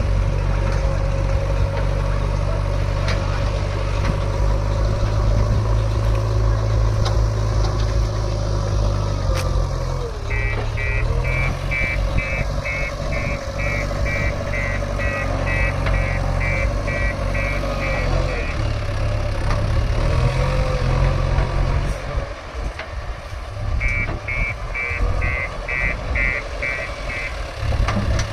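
JCB 3DX backhoe loader's diesel engine running under changing load, with a reversing alarm beeping about twice a second in two spells, the machine backing up.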